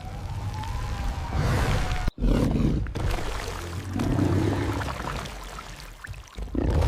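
Cinematic horror sound design: a low rumble with a faint gliding, siren-like tone in the first two seconds, a sudden brief silence, then low rumbling swells that fade before the next line.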